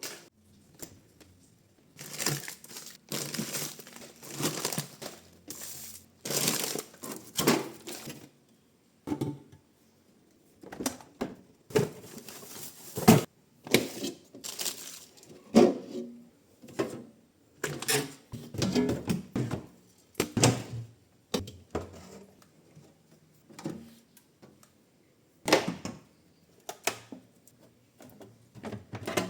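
Plastic crinkling and rustling with clattering knocks of objects being picked up and set down, in irregular bursts with short pauses.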